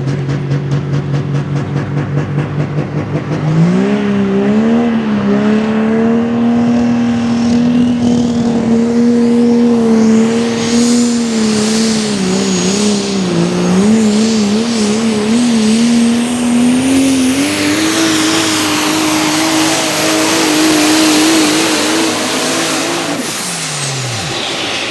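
Super stock diesel 4x4 pulling truck's engine pulsing at a low throttle, then about three and a half seconds in it opens up to full power under load, its pitch wavering midway and climbing higher later, with a high turbo whistle above. Near the end the engine note drops sharply as the throttle is cut at the end of the pull.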